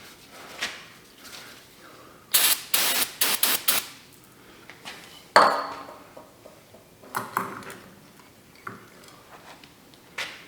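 Metal hydraulic fittings and tools being handled on a workbench: scattered clinks and knocks, a quick cluster of short noisy sounds about two to four seconds in, and one loud ringing metallic clink about five seconds in.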